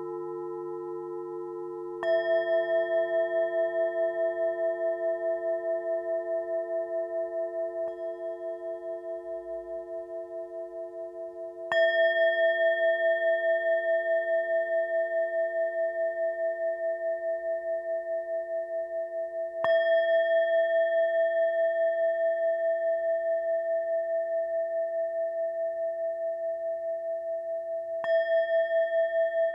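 Tibetan singing bowls struck one after another, four times, each strike ringing on with a slow wavering pulse while deeper bowls keep sounding beneath.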